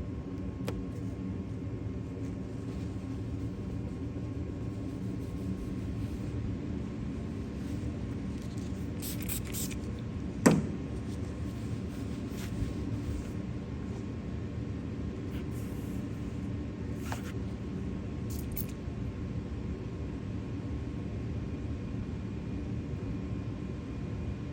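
A steady mechanical hum with a few light clicks and one sharp tap about ten seconds in.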